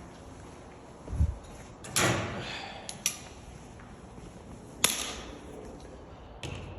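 Handling noises from masking work: a dull thump about a second in, then three sharp clicks or knocks, two of them trailing off in a short rasp.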